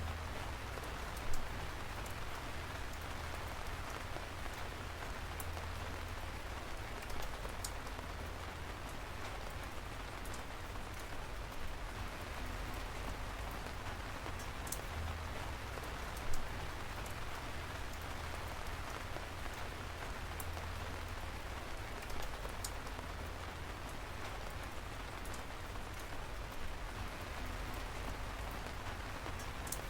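Steady rain falling as an even hiss, with a few sharper taps of single drops striking close by, two of them clearly louder, about a second in and about halfway through.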